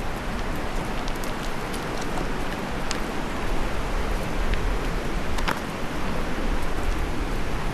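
Steady rushing noise of a fast mountain river, with a few faint clicks on top.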